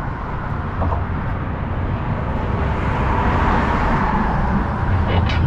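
Steady rumble of highway traffic, swelling a little after about three seconds.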